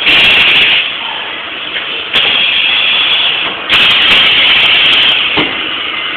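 HW1002F high-frequency plastic welding machine cycling: three loud bursts of hiss-like noise, each starting abruptly, the last two lasting over a second, over a steady lower machine noise.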